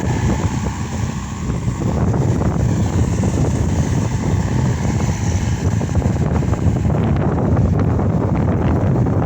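Case SR200 skid steer loader's diesel engine running steadily under work, with scattered knocks and rattles in the second half.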